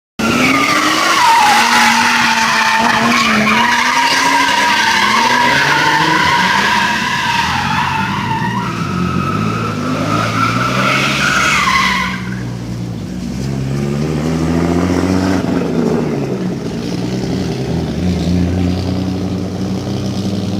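A drift car sliding with its tyres squealing loudly over the revving engine; about twelve seconds in the tyre squeal stops and the engine goes on revving up and down.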